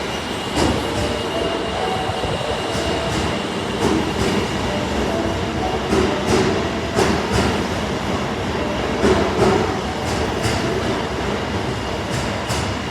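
Osaka Metro Tanimachi Line 22-series subway train running, its wheels clacking over rail joints in scattered knocks, with a steady high tone underneath.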